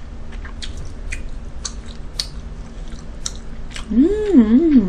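Close-miked chewing of a mouthful of fried rice: soft wet mouth clicks and smacks. Near the end a voice hums with a wavering pitch, louder than the chewing.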